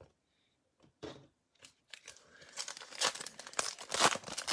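A trading card pack's wrapper being torn open and crinkled, quiet at first and then a dense, growing crinkling from about halfway through.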